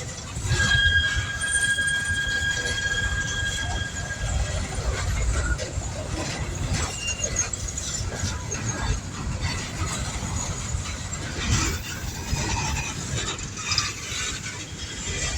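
Coal train cars rolling past with a steady rumble and clacking wheels. A high-pitched wheel squeal holds steady for about four seconds near the start, then fades.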